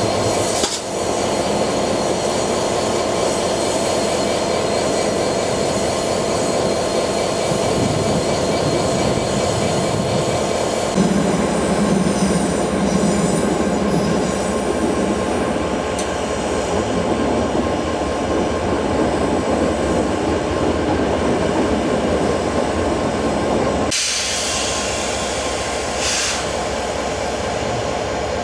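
Train running on the rails, with wheels squealing against the rails over continuous rolling noise. The sound shifts abruptly about a third of the way in and again near the end.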